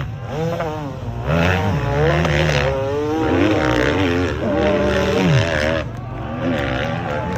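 Dirt bike engine revving, its pitch rising and falling repeatedly, held high for about a second and a half before dropping sharply about five and a half seconds in.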